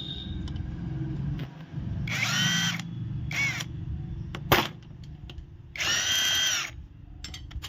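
Power tool spinning out the AC compressor's 12 mm mounting bolts in three short bursts, about two, three and a half, and six seconds in; its whine climbs as each burst starts and drops away as it stops. A steady low hum runs underneath, and a single sharp knock comes about four and a half seconds in.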